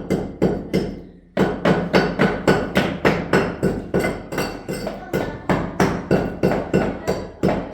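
Rapid, evenly paced hammer blows, about four a second, with a brief pause about a second in.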